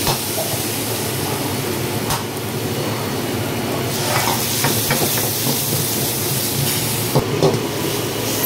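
Food frying in a hot pan, a steady sizzling hiss, with a few light knocks of stirring about two, four and seven seconds in.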